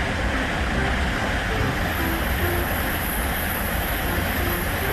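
Shinkansen bullet train passing at speed close by: a steady rushing rumble of the cars running along the track. A thin high whine joins in about two seconds in.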